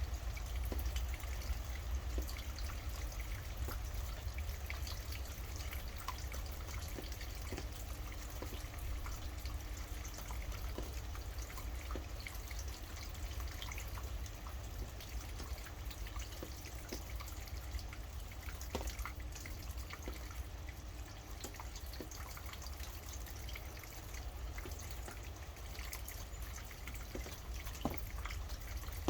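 Steady rainfall, with many individual drops dripping and pattering over an even hiss and a constant low rumble underneath.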